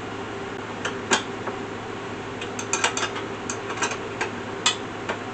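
Irregular metallic clicks and clinks of hand tools and steel parts being worked, a socket, ratchet or speed handle on the bolts of an Alaskan chainsaw mill frame, loudest about a second in and near the end, over a steady low hum.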